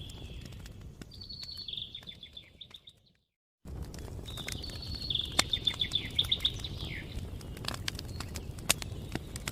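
Campfire crackling with scattered sharp pops over a low rumble, while a songbird sings two high trilled phrases, one in the first seconds and a longer one about halfway through. About three seconds in, the sound fades and cuts out completely for half a second before returning abruptly.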